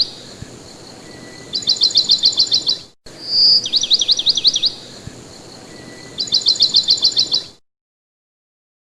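A songbird singing loud, high phrases: a short whistle followed by a rapid trill of quick down-slurred notes, then another rapid trill. The phrase comes twice, the same each time, and the song cuts off suddenly near the end.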